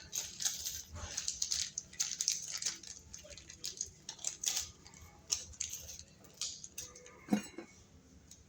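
Irregular light clicking, clinking and scraping of small metal hardware (washers, screws, an outlet box extension) being handled and fitted. A single sharper, louder sound comes about seven seconds in.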